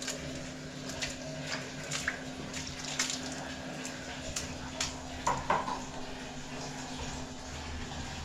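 Water running or splashing, with irregular small clicks and knocks over a steady low hum.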